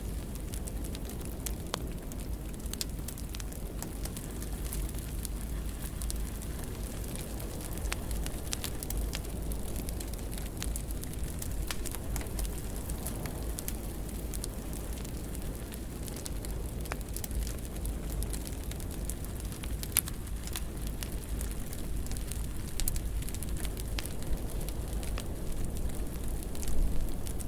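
Fire burning in a fireplace: a steady low rush under frequent small crackles and pops, with a few sharper pops toward the end.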